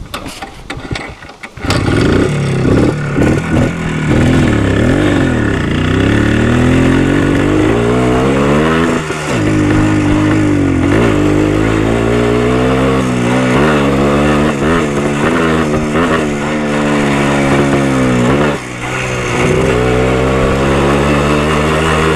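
Minsk motorcycle engine under way, coming in loud about two seconds in after wind on the microphone, its pitch rising and falling again and again as it accelerates and shifts gears.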